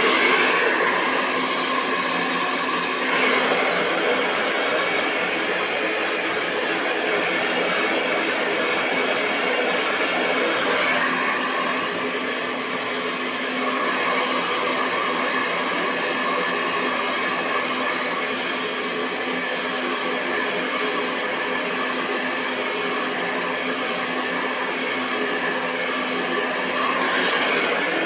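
Hair dryer running continuously: a steady rush of airflow over the motor's hum, with small shifts in tone a few times.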